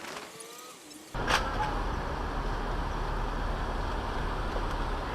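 Steady road and engine noise of a car on the move, picked up inside the vehicle. It starts abruptly about a second in, with a sharp click just after. Before it there is a faint gliding tone.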